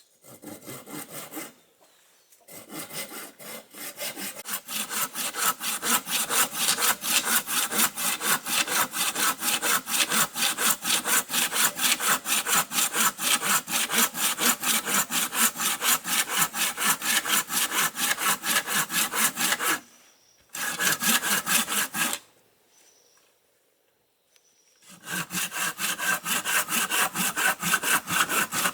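Handsaw cutting through wood in quick, even back-and-forth strokes. The sawing stops briefly about two seconds in, again around twenty seconds, and for about three seconds before resuming near the end.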